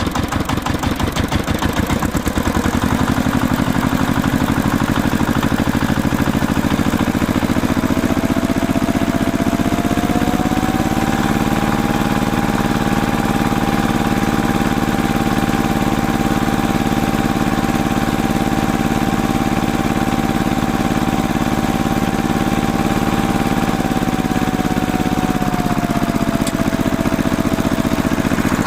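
An engine running steadily with a fast, even chug, and a thin whine that rises about ten seconds in, holds steady, then drops back near the end.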